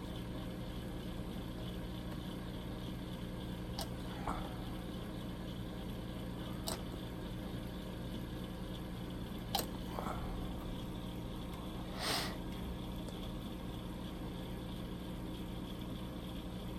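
Steady low electrical hum of room equipment, with a few faint light clicks and a short hiss about twelve seconds in.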